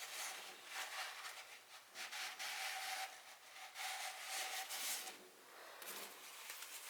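Repeated rubbing or scraping strokes, each about a second long, like something being worked by hand against a surface.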